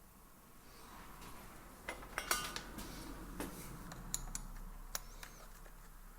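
Small metal parts and hand tools clicking and clinking as they are handled during a carburettor and throttle repair. A cluster of sharp clinks comes about two seconds in, one ringing briefly, then scattered lighter clicks.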